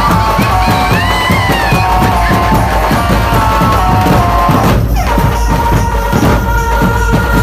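Dhumal band music: dense, fast drumming under a held, sustained melody line. About five seconds in, a steep falling swoop in pitch cuts through.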